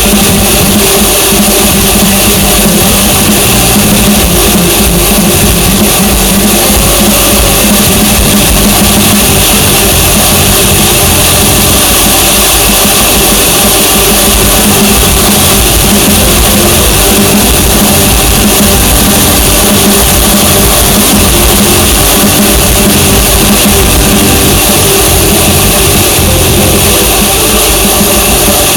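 Loud, steady drone of a vehicle on the move, unbroken throughout, with music playing over it.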